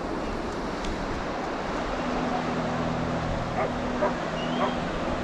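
Steady wash of surf and wind on a beach, with a low steady hum joining about two seconds in. Past the halfway mark a dog barks three times, about half a second apart.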